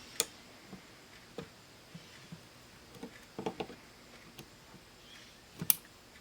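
Scattered sharp clicks and light taps of small parts and tools being handled on a workbench. A loud click comes just after the start, a quick cluster about three and a half seconds in, and the loudest click near the end.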